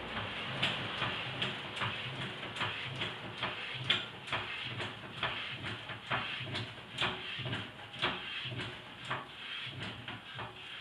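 Repeated sharp metallic clicks, about two or three a second and unevenly spaced, from tools being worked by hand during a car tyre change.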